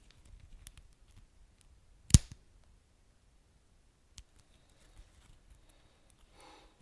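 Wood fire crackling softly: scattered small ticks, one sharp loud pop about two seconds in, and a brief hiss near the end.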